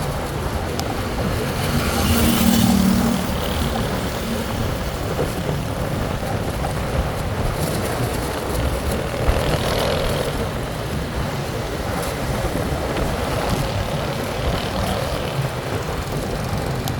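Steady vehicle ride noise: engine running with road and wind rumble. A brief louder patch with a low tone comes about two seconds in.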